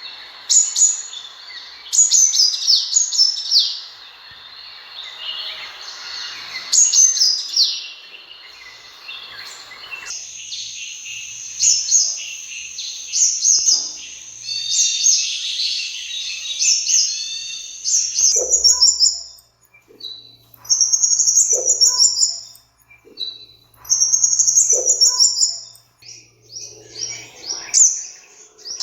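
Sunbird calling: rapid high-pitched chirping and twittering phrases. In the second half they come in short bursts of a second or two with brief pauses between.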